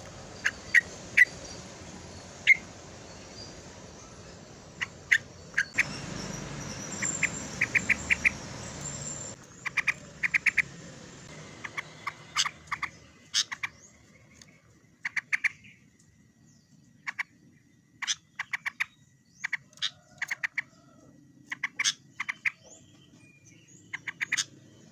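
Yellow-vented bulbul calling: short, sharp chirpy notes in quick runs of several at a time, repeated throughout, as used for luring rival birds.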